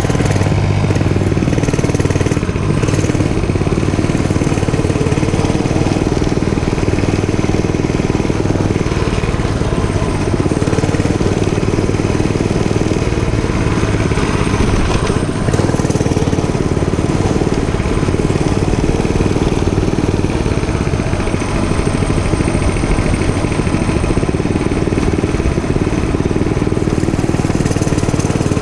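Dirt bike engine running steadily under way.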